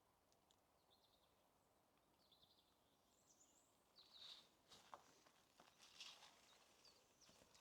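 Faint forest ambience with a few short, high bird chirps, then from about halfway through, a person's footsteps walking along a forest path.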